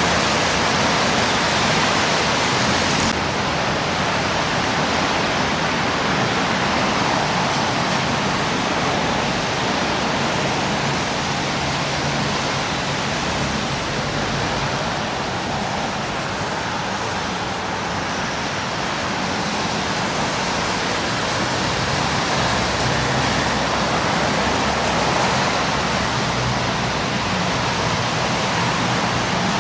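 Steady rushing outdoor street ambience, an even noise with no single sound standing out.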